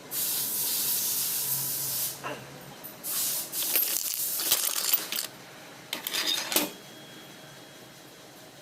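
Three bursts of hissing spray: a long one of about two seconds, a second of about two seconds with light metallic clinks through it, and a short one near the end.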